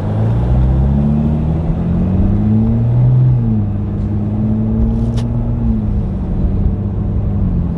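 Car engine heard from inside the moving car, rising in pitch as it accelerates. It drops back at a gear change about three seconds in, climbs and holds, then eases off again near the end.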